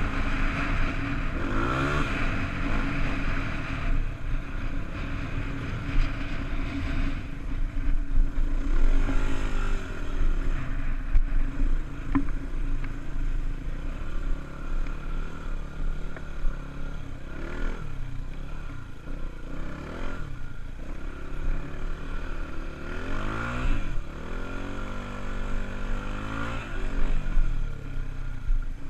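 Honda dirt bike engine revving up and easing off several times as it is ridden, its pitch rising and falling with the throttle.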